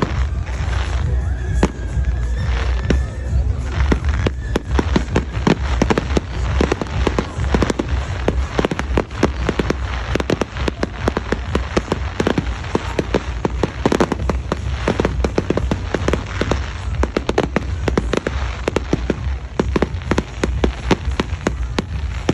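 Fireworks display: a dense, continuous run of bangs and crackles from many shells bursting, several a second.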